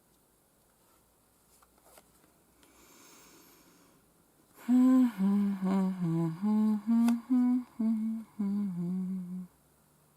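A woman humming a short tune of about a dozen separate notes, starting about halfway through. Before it there are only a few faint clicks and a soft rustle.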